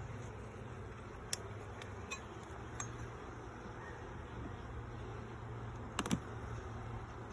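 Honey bees at an open hive humming steadily, with a few light clicks early on and a sharper double click about six seconds in.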